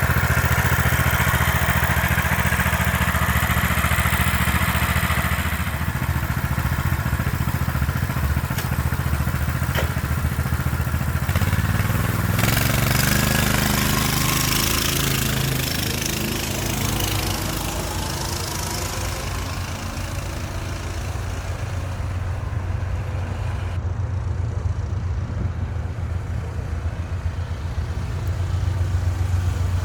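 Coleman BT200X mini bike's small single-cylinder engine running, its pitch shifting and gliding about halfway through as it is revved.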